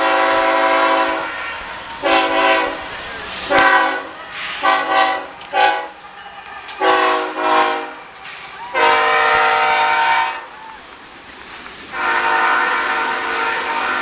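Locomotive air horn sounding a multi-note chord in a series of blasts: long ones mixed with several short quick ones in the middle, and a long blast to finish.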